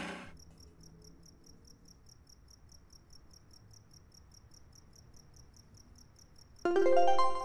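Crickets chirping steadily and faintly, about four high chirps a second. About six and a half seconds in, music comes in loudly over them.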